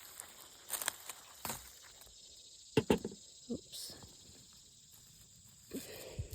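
Insects trilling steadily in the background, with a couple of sharp knocks about three seconds in and soft rustling from handling plants.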